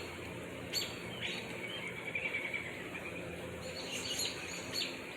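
A few short, faint bird chirps at irregular intervals over steady outdoor background noise.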